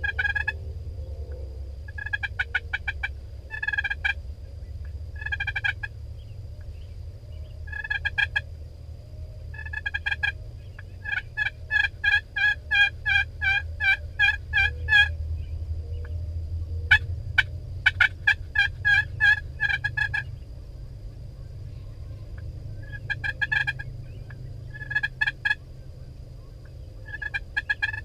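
Turkeys yelping in repeated series of short, evenly pitched notes, with a long unbroken run of yelps about halfway through. A steady low rumble runs underneath.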